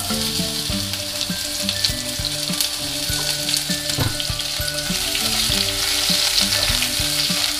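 Sliced shallots sizzling and frying in hot oil in a pot, the sizzle starting at once as they drop in, and stirred with chopsticks near the end. Light background music runs underneath.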